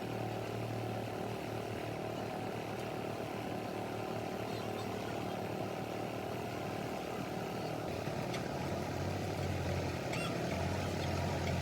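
A machine motor running with a steady low hum; the hum grows stronger about eight seconds in.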